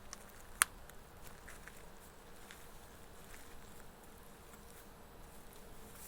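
Faint scattered ticks and light rustles, with one sharp click just over half a second in.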